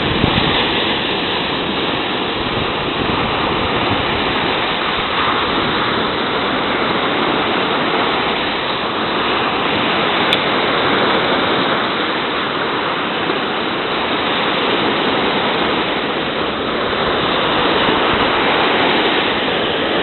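Sea surf breaking and washing on the shore in a continuous, steady roar of water with slow gentle swells.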